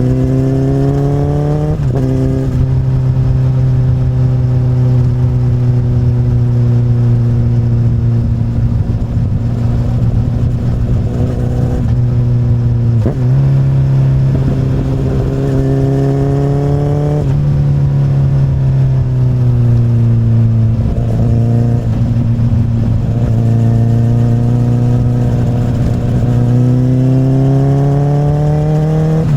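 2008 Honda CBR1000RR (SC59) inline-four engine, heard through an Akrapovic carbon slip-on exhaust while riding. Its pitch climbs under throttle and drops suddenly a few times at gear changes, with stretches of slowly falling revs in between.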